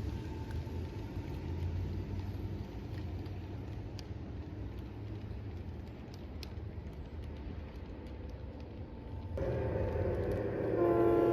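Train running with a steady low rumble, growing louder about nine seconds in; near the end its horn starts sounding a chord of several steady notes.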